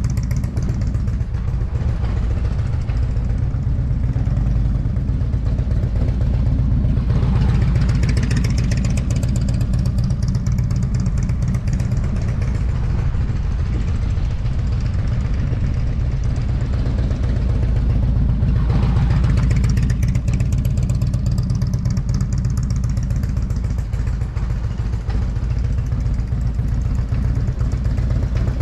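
Motorcycle engine running continuously, swelling twice with brief rises in the upper range, about a quarter of the way in and again about two-thirds through.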